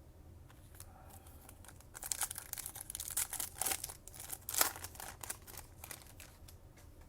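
Foil wrapper of a trading-card pack being torn open and crinkled by hand: a burst of crisp rustling and crackling starting about two seconds in, loudest near the middle, then thinning out.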